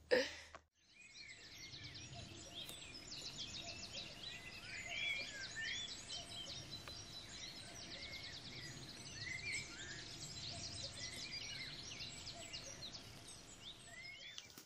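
Several birds chirping and singing, many short calls overlapping, over faint outdoor background noise.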